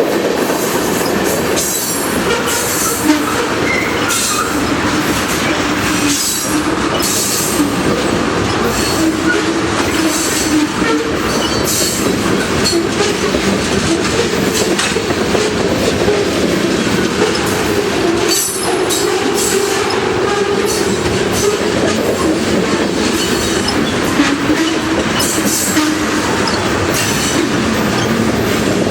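Huron & Eastern freight train rolling past: a steady loud rumble with wheels clicking over rail joints and a wavering squeal from wheels against the rail.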